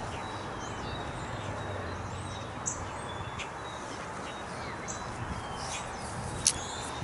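Backyard songbirds chirping and calling in short, scattered high notes over a steady outdoor background hum, with one sharp click about six and a half seconds in.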